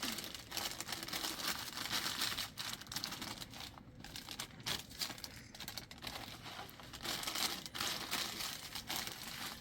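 Plastic food packaging crinkling and rustling as it is handled and torn, in uneven bursts with brief lulls.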